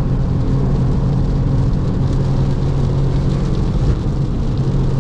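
Porsche 996 Carrera's 3.6-litre flat-six, through a valved sport exhaust, running at a steady engine speed under load, heard from inside the cabin. A steady hiss lies under the engine note.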